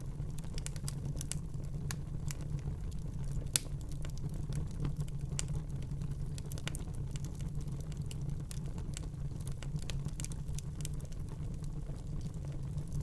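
Wood fire burning in a fireplace: a steady low rumble of the flames with frequent irregular crackles and pops, one sharper pop about three and a half seconds in.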